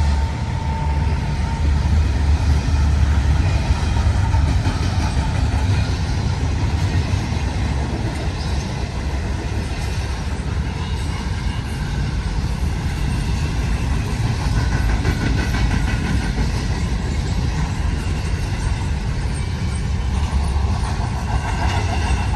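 Long CN intermodal freight train rolling past, a steady loud rumble of wheels on rail, with a horn note trailing off about a second in.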